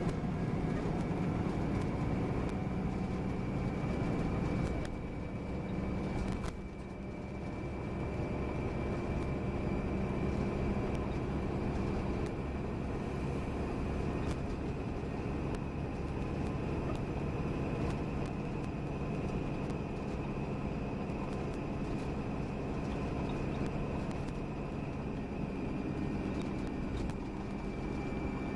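Volvo B9R coach under way, heard from inside the cabin: a steady diesel engine and road rumble, with a thin, steady high whine above it. The sound drops off briefly about five seconds in, then picks up again.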